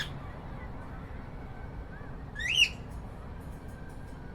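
A cockatiel gives one loud call that rises in pitch about two and a half seconds in, with a few soft chirps around it over steady low background noise.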